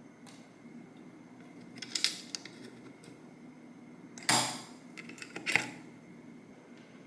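A few sharp clacks and rattles of hard objects being handled, the loudest about four seconds in, over a faint steady high-pitched tone.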